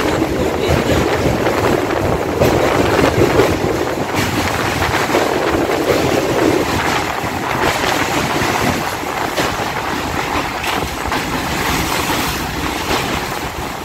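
Moving electric local train heard from its open doorway: wind rushing in over the steady rumble and clatter of the wheels as it crosses a steel truss bridge. The sound eases a little in the second half.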